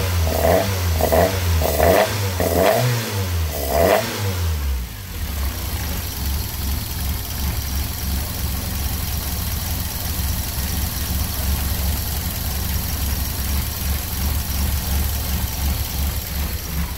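Toyota 4A-GE 16-valve four-cylinder engine with individual throttle bodies. Its revs rise and fall about twice a second for the first four seconds or so, then it settles into a steady idle.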